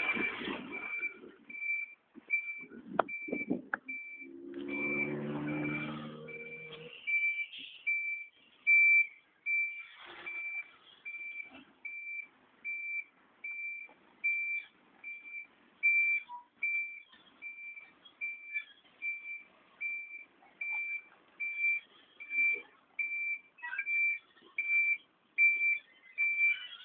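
Truck reversing alarm beeping steadily, about three high beeps every two seconds, as the truck backs up. A few seconds in, a lower pitched sound with several tones joins it for about two and a half seconds, with scattered knocks around it.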